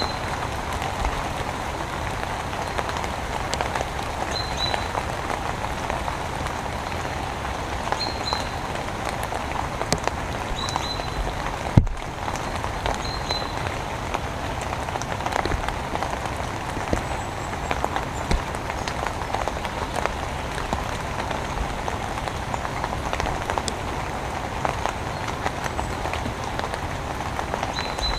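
Steady rain falling, a dense patter of drops. Short high bird chirps come every three or four seconds in the first half, and there is one sharp knock about twelve seconds in.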